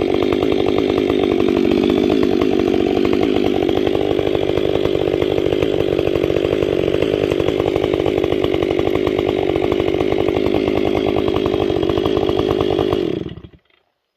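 Chainsaw running steadily under load as it bucks through a balsam fir log with a sharp chain; the sound cuts off abruptly about a second before the end.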